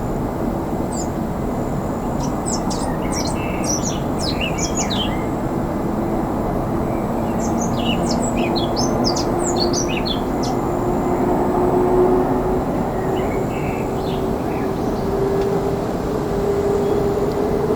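Steady jet roar of an approaching Airbus A350-900's Rolls-Royce Trent XWB engines, with a hum in it that slowly rises in pitch as the aircraft comes in to land. Small birds chirp over it in short bursts.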